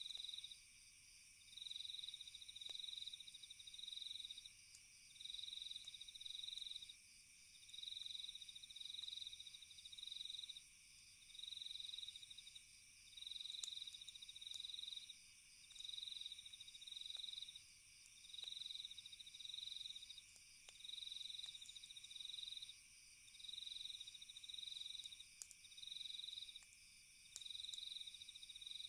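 Faint cricket chirping: short high trills in pairs, repeating about every two and a half seconds over a steady hiss of night insects, with scattered faint crackles from a campfire.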